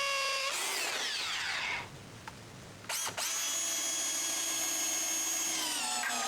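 Power drill driving screws through the wooden wall frame into the concrete blocks: two runs of steady motor whine, each dropping in pitch as it winds down, with a short pause and a click between them.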